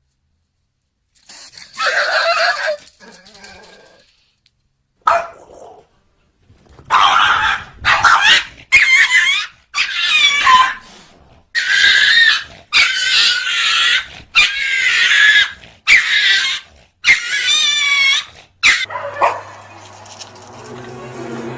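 A dog giving a rapid run of about ten loud, drawn-out vocal calls with wavering pitch, after a few scattered shorter calls.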